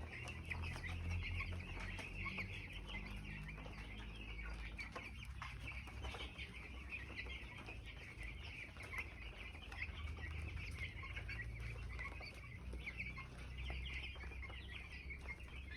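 A brooder full of two-week-old chicks peeping continuously, many high calls overlapping, over a low rumble.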